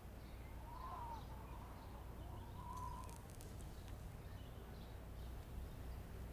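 Quiet outdoor ambience with a faint low hum, and a bird calling twice: once about a second in and again near three seconds.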